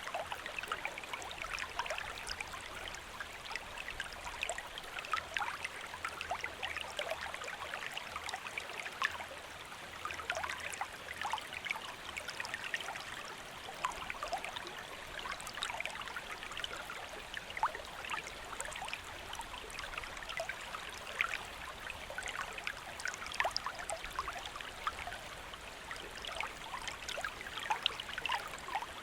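Small river flowing steadily over stones, a continuous rush of water with many small splashes and gurgles through it.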